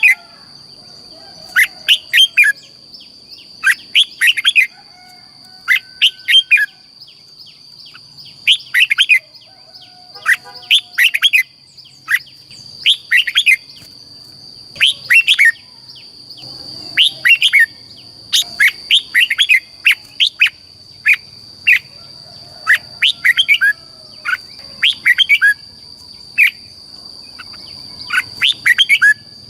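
Red-whiskered bulbul singing, short quick phrases of clear warbled notes repeating every second or two. A thin steady high-pitched tone runs behind the song.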